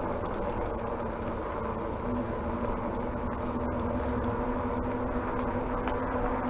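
Fat-tire e-bike riding along at speed: a steady rush of wind on the helmet camera's microphone, with a steady hum from the rolling fat tires and rear hub motor.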